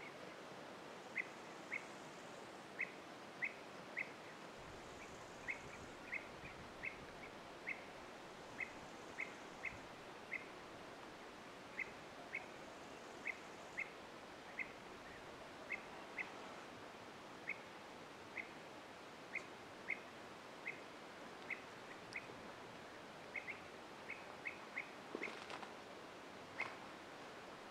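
A bird calling with short, high chirps over and over, mostly in pairs, over a steady hiss of outdoor background noise. There is a brief soft rustle near the end.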